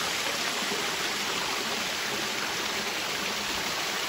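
Running water rushing steadily, as from a forest stream or small waterfall.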